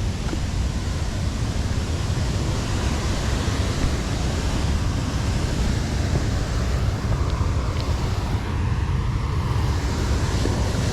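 Wind buffeting the microphone: a steady low rumble with an even hiss over it and no distinct events.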